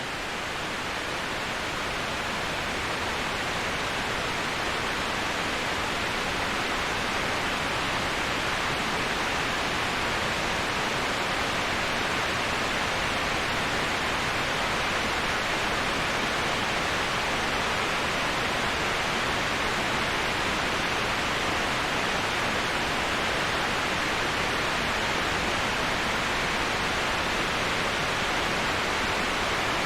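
Waterfall white noise: a steady, even rush of falling water with no breaks or separate events, swelling slightly over the first few seconds and then holding constant.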